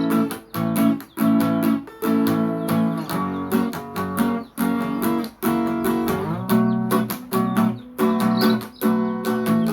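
Nylon-string acoustic guitar (violão) playing, chords strummed in a steady quick rhythm with short breaks between phrases.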